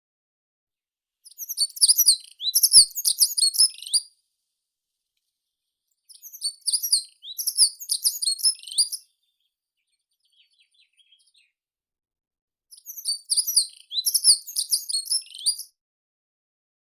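A meadow songbird singing three high-pitched, rapid warbling phrases of about three seconds each, with pauses between them.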